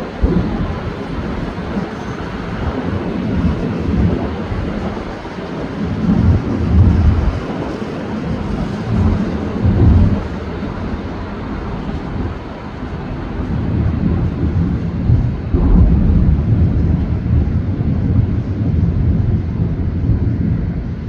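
Fireworks display: aerial shell bursts going off in quick succession, their booms running together into a continuous rumble that swells and fades every few seconds, with a sharper bang about fifteen seconds in.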